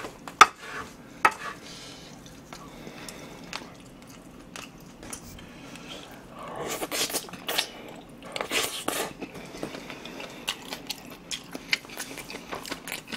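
A wooden spoon scooping kimchi fried rice and knocking against a frying pan, with sharp clicks in the first second or so. Then close-up chewing of a mouthful of the rice, loudest in two stretches about seven and nine seconds in.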